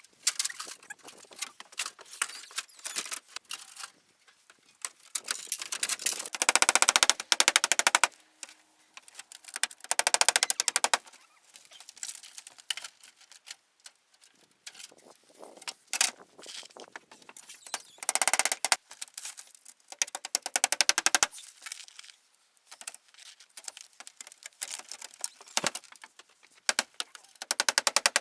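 Dense, irregular runs of rapid clicks and knocks, coming in bursts of a second or two with short quieter gaps between them.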